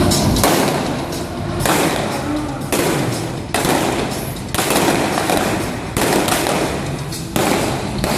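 Stunt-show pyrotechnic blasts: about seven loud bangs roughly a second apart, each cutting in sharply and then fading away.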